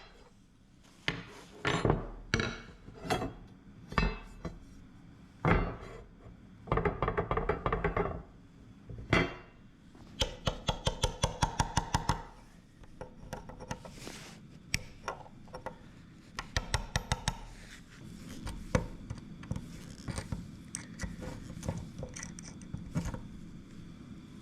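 Hand-tool work on a wooden table: a series of sharp knocks, a rough scraping stretch, then a fast run of clicks, followed by lighter taps and handling of wood and tools.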